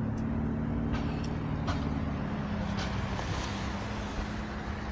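A car engine running steadily at idle, with a few faint clicks over it.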